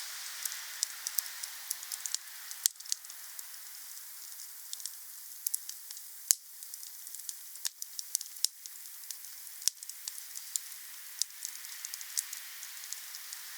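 Wood campfire burning: a steady hiss with frequent small crackles and two sharper pops, about a fifth of the way in and a little before halfway.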